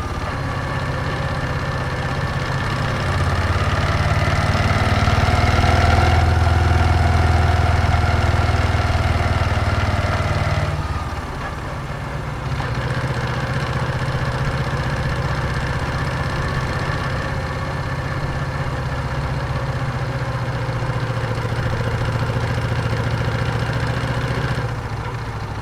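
Moto Guzzi V7's air-cooled transverse V-twin running at low speed. About eleven seconds in the revs drop and it settles into a steady idle.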